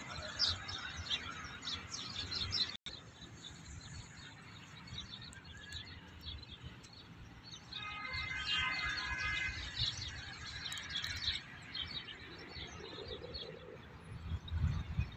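Birds chirping repeatedly, with a short call of several steady pitches about halfway through, over a low background rumble.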